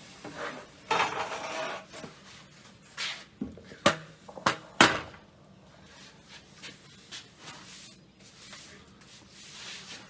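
Handling noise of stored items being sorted: a scraping rustle, then a few sharp knocks as objects are moved and set down, the last one the loudest.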